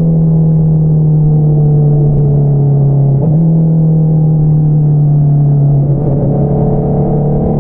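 Exhaust note of a 2022 Honda CBR650R inline-four through an Akrapovič single-outlet exhaust, running at a steady cruising speed. Its pitch dips briefly about three seconds in and sags a little lower near the end.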